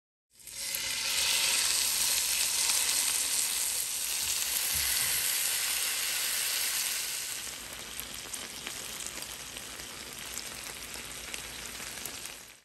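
Skewers of marinated chicken kebab pieces sizzling as they fry in oil in a pan. The sizzle eases to a quieter level a little past halfway, then cuts off just before the end.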